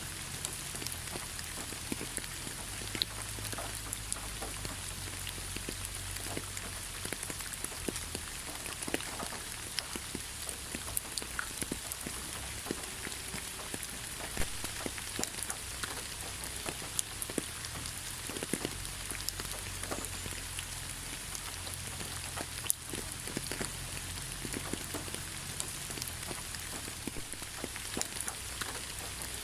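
Steady rain on forest foliage, many separate drops pattering, with a continuous hiss behind them.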